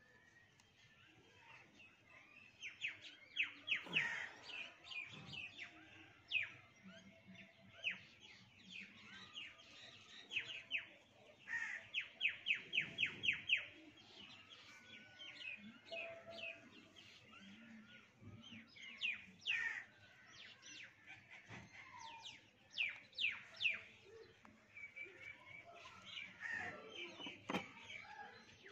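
Small birds chirping, with short sharp falling notes repeated in quick runs, the longest a run of about eight notes around the middle.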